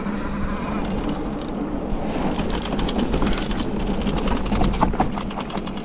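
An e-mountain bike riding along a wet, muddy trail: steady tyre and drivetrain noise with a low hum. About two seconds in, a rapid crackle of quick clicks joins it.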